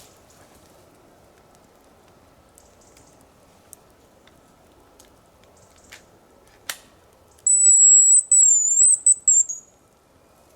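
Hazel grouse decoy whistle blown in one high, thin call of about two seconds: a long held note broken into a few parts, ending in a quick wavering trill, imitating a hazel grouse to lure a territorial male. A couple of sharp clicks come just before it.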